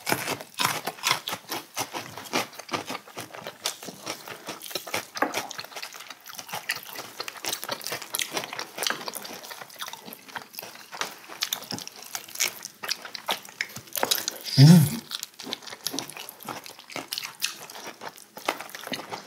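Close-miked chewing and biting of roasted chicken, with many small clicks and crunches as the meat and skin are pulled from the bone. About three-quarters of the way through, a short, louder voice sound stands out.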